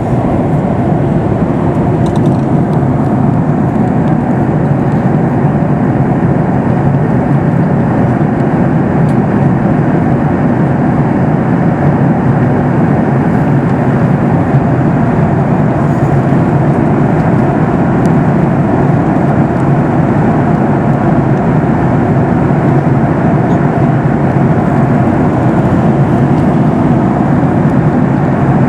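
Steady in-flight cabin noise of a Boeing 737 MAX 8: an even rush of engine and airflow noise from its CFM LEAP-1B turbofans and the air past the fuselage.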